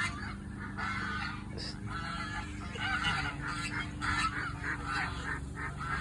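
A flock of farm waterfowl calling over and over in short, overlapping honking calls, over a low steady hum.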